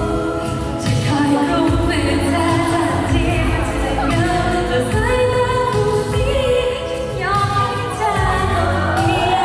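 Pop song performed live over an amplified backing track: female vocalists singing with a steady bass beat, heard through a venue's sound system.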